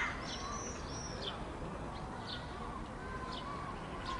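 Birds calling: a few quick arched high whistles in the first second or so, then short high notes about once a second, over a steady low rumble of background noise.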